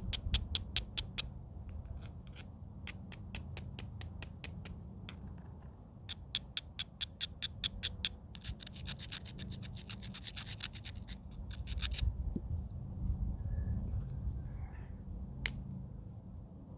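Stone being scraped against the edge of a flint point in quick strokes, several a second, in bursts: the knapper abrading the edge between strikes. A single sharp click comes near the end.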